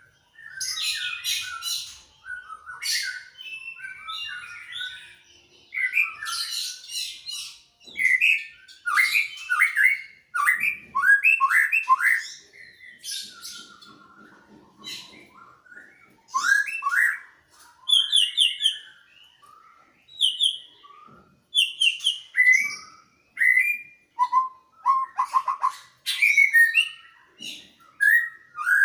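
Greater green leafbird (cucak ijo) and white-rumped shama (murai) singing back and forth in loud, varied phrases: clear whistled notes, fast chattering rattles and trills, with short pauses between phrases.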